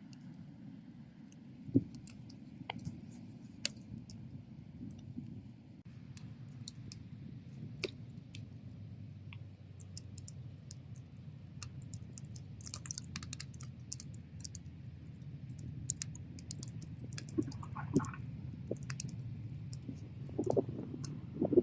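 Bonfire burning, with scattered sharp crackles and pops of wood over a low steady rumble of the flames; the pops come more often in the second half.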